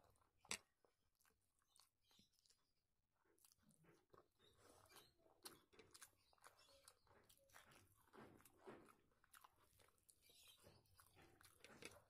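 Faint close-up eating sounds of rice and curry eaten by hand: irregular chewing and lip smacks, with soft squelches of fingers mixing food on the plate. One sharper click comes about half a second in.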